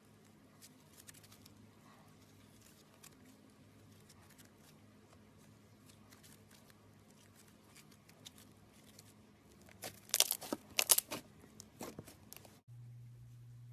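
Slime being worked by hand, with faint sticky clicks and crackles, then a burst of louder crackling and popping about ten seconds in. It cuts off abruptly near the end, leaving a low steady hum.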